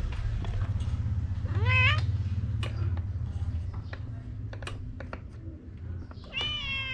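A cat meowing twice: a short rising meow about a second and a half in, and a longer meow near the end, over a steady low rumble and scattered clicks.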